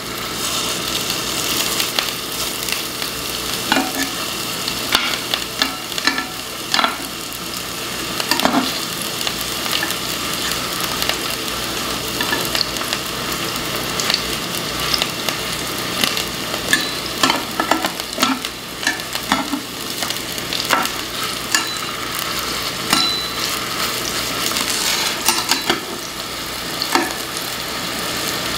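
Chicken sausage patties sizzling as they shallow-fry in sunflower oil, with scattered clicks and scrapes from a perforated stainless-steel skimmer turning them and pressing them flat against the pan.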